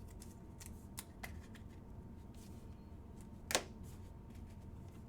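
Football trading cards being handled and flicked against each other, a few soft crisp ticks in the first second and a half, then one sharp louder snap about three and a half seconds in.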